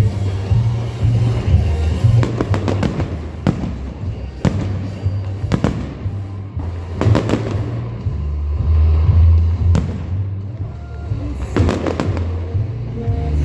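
Fireworks display: loud firework bangs every second or so, several in quick clusters, over Christmas-themed music with a heavy bass played along with the show.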